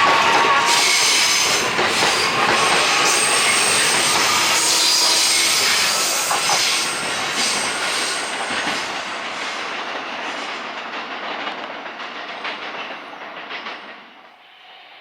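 JR E131 series 500 electric train running past and away, its wheels clattering and hissing on the rails with clicks over the joints. A faint rising motor whine from its hybrid SiC IGBT VVVF inverter drive is heard at the very start. The noise is loud for the first several seconds, then fades steadily and drops off sharply near the end as the train recedes.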